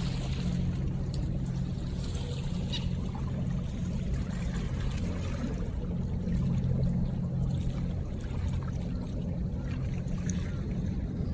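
River water splashing and trickling, with scattered small drips and splashes over a steady low rumble.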